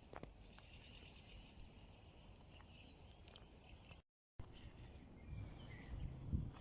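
Faint outdoor nature ambience with high chirping from small animals in the background. It cuts out abruptly for a moment about four seconds in, and a low rumble builds near the end.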